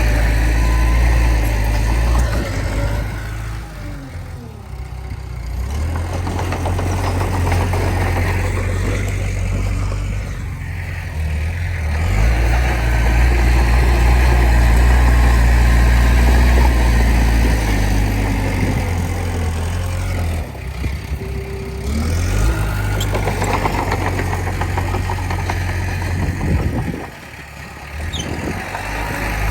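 Komatsu D20P bulldozer's diesel engine running and working, its pitch and loudness easing off and picking back up several times as the load changes.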